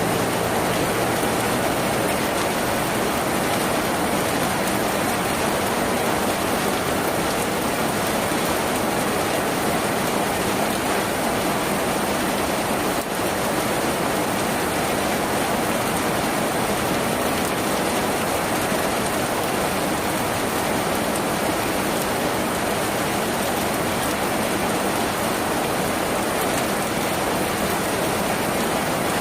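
Steady, dense rain falling on a tin roof.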